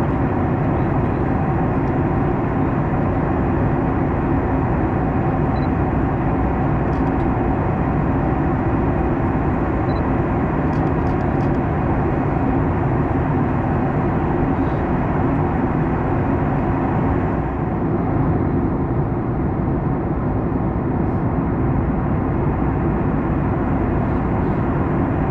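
Steady cabin noise of a Boeing 737 MAX 9 in cruise: an even rush of airflow and engine noise from its CFM LEAP-1B engines, with a few faint ticks.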